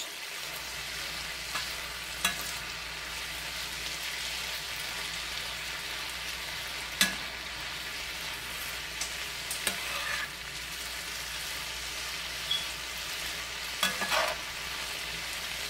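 Shredded cabbage frying in a cast-iron skillet: a steady sizzling hiss, with a few sharp clacks of a metal spoon against the pan as it is stirred.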